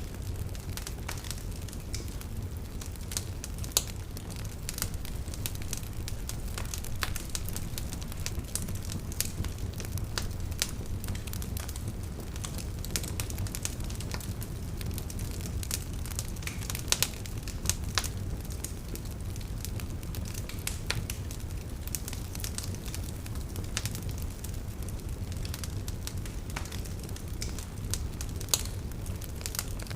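Open fire crackling, with frequent sharp pops and a few louder snaps, over a steady low rumble.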